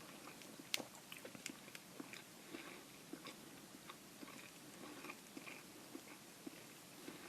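Close-miked chewing of instant noodle soup: faint, irregular small mouth clicks, with one sharper click under a second in.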